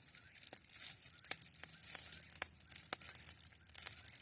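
Campfire crackling: irregular sharp pops and snaps, several a second, over a faint hiss.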